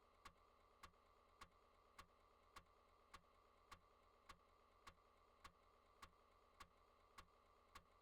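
Near silence with faint, evenly spaced clicks, a little under two a second.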